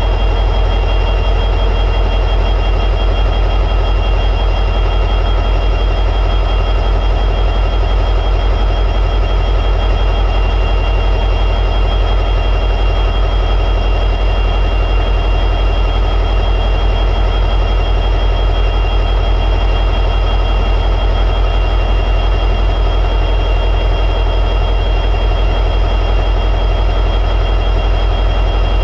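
EMD 710G3B two-stroke diesel prime mover of an SD60E locomotive running steadily at high idle, with a fast, even pulsing and a steady high whine over it.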